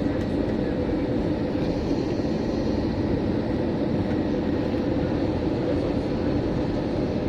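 Steady engine and airflow noise of an Airbus A321 in flight, heard from inside the passenger cabin, with a faint thin high tone held above it.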